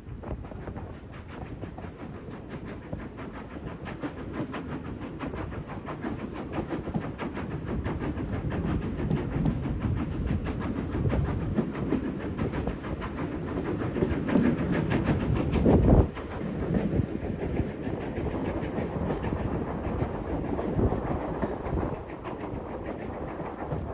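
A steam train running past, with a rapid rhythmic beat over a hissing haze. It grows louder to a peak about two-thirds of the way through, then drops suddenly.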